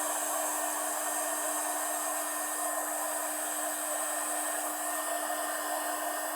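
Compact router (trim router) running steadily in a hand-planer base, its bit cutting across a board's surface to flatten it. A steady motor whine under a loud, even rush of cutting noise.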